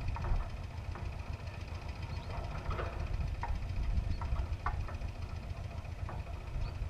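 Agria 8900 articulated tractor's engine running steadily, with a few short light knocks scattered over it.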